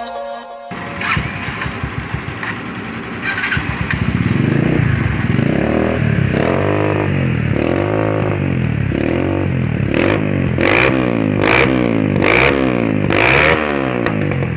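Motobi/Keeway 152 single-cylinder motorcycle engine running through a custom exhaust and being revved over and over. Each blip rises and falls, starting about four seconds in, and the blips turn quicker and sharper near the end.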